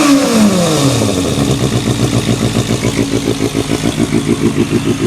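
Kawasaki Balius ZR250A's 250 cc inline-four through a WR'S aluminium full exhaust, revs falling back over about a second after a throttle blip and then settling into an idle with an even, pulsing exhaust beat.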